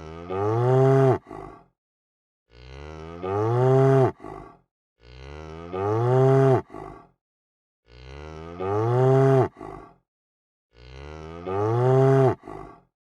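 Cow mooing: the same moo repeated about every two and a half seconds, each starting quieter and swelling into a louder call that rises then falls in pitch, with dead silence between calls.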